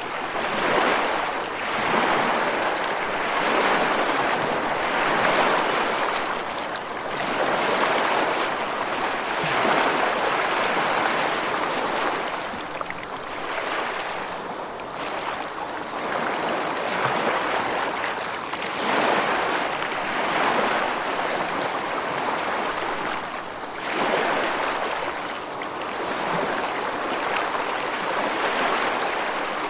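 Rushing water, a dense steady wash that swells and ebbs every few seconds, like waves breaking.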